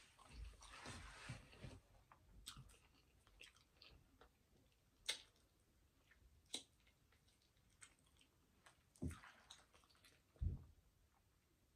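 Close-miked chewing of Flamin' Hot Cheetos-crusted fried chicken, thickest in the first two seconds, then scattered wet mouth clicks and smacks. Two low thumps come near the end.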